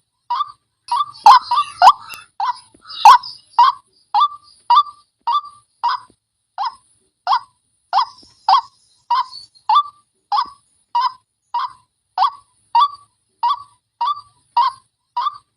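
White-breasted waterhen (wak-wak) lure call: a short harsh 'wak' note repeated steadily, a little under two a second. Between about one and three seconds in, the calls crowd and overlap, with a few sharp clicks among them.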